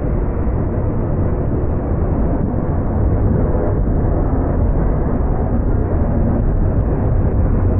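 Freight train rolling past close by: a loud, steady low rumble of the cars on the rails.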